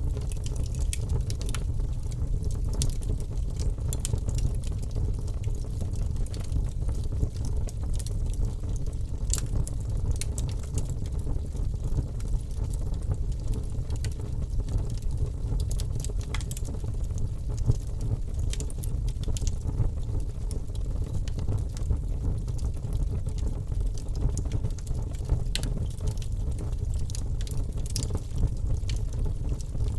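Wood fire in a fireplace crackling: irregular sharp pops and snaps over a steady low rumble of burning flames.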